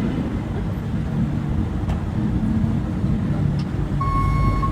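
A vehicle engine running with a steady low rumble. Near the end, a reversing beeper starts with a steady high-pitched beep.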